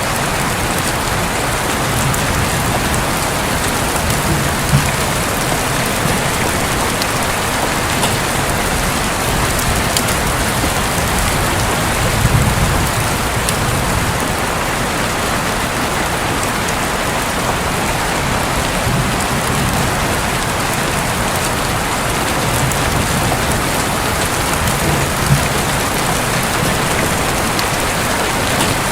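Steady rain drumming on a roof, with a sharp drop knock now and then and soft low rumbles of distant thunder a few times.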